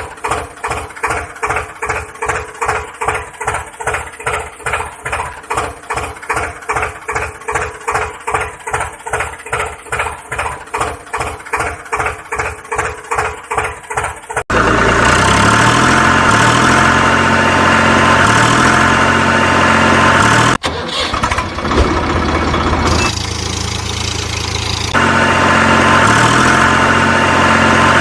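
Engine-like running sound, at first a regular chugging of about two and a half beats a second. About halfway through it cuts abruptly to a steadier, denser running sound.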